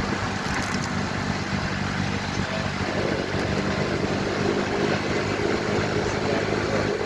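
Motorcycle engine running at a steady pitch while riding, over a rush of road and wind noise.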